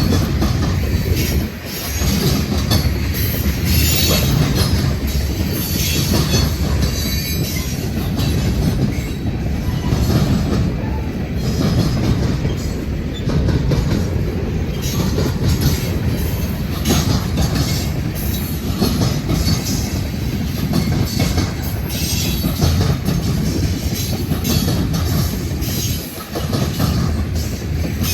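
Freight train cars rolling past close by: a steady rumble of steel wheels on rail, with repeated clicks and clatter as wheels cross rail joints.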